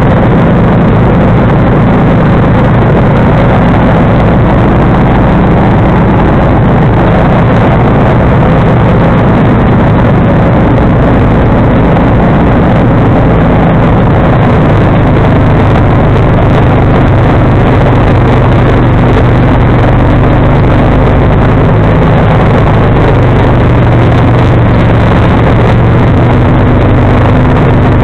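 John Deere 445 garden tractor's V-twin engine running steadily and loud, driving its 47-inch snowblower.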